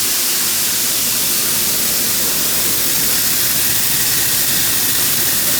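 Grain-handling equipment at the bin running with corn flowing through the screener: a steady, loud rushing noise with a faint machine hum under it.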